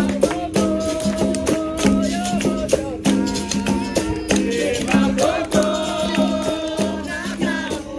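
Live capoeira roda music: berimbaus struck in a steady repeating rhythm with the shaken rattle of caxixis, and singing over them.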